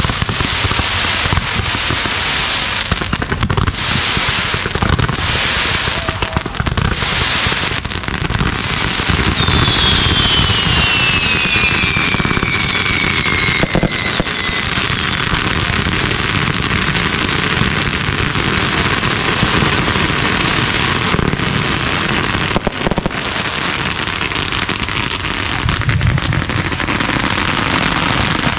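Ground-launched consumer fireworks going off in a continuous barrage of crackling and bangs. About a third of the way in, a whistle glides down in pitch for several seconds.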